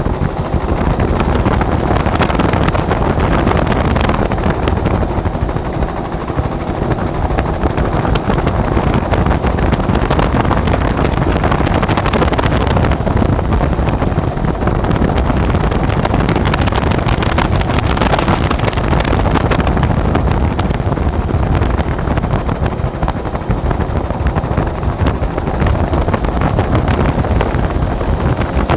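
Steady helicopter engine and rotor noise heard from on board, with wind on the microphone. A thin high whine runs constantly through it.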